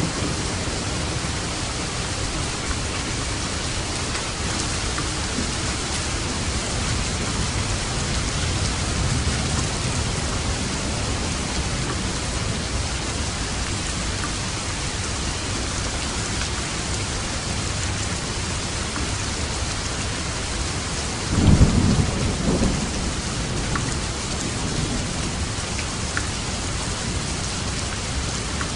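Steady rain with a low rumble of thunder underneath, and a louder clap of thunder about three quarters of the way through.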